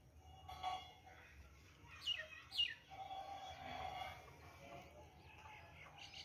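Faint bird chirps, with two quick high chirps falling in pitch about two seconds in and more light chirping near the end.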